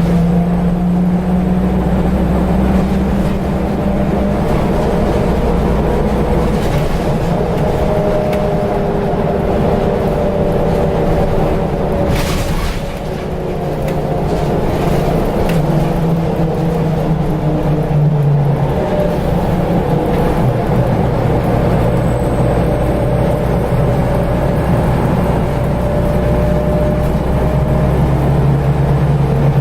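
Scania L94UB bus heard on board: engine drone under the whine of its ZF automatic gearbox, the whine's pitch sliding and stepping as the bus speeds up, slows and changes gear. A brief burst of noise about twelve seconds in.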